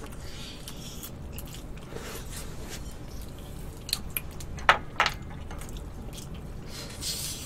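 Close-miked mouth sounds of a person eating marinated grilled short ribs (LA galbi): chewing, biting and wet lip smacks. A few sharper, louder smacks come about two-thirds of the way in.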